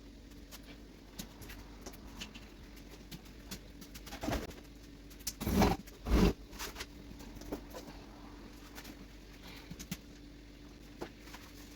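Scattered small clicks and knocks of objects being picked up and handled, over a faint steady hum, with three short, louder, low sounds a little before halfway.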